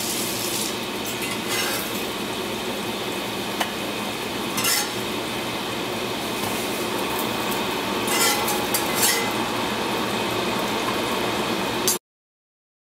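Oatmeal pancakes frying in oil in a cast-iron skillet, a steady sizzle, with a few sharp clinks of a metal spatula against the pan and plate. The sound cuts off suddenly near the end.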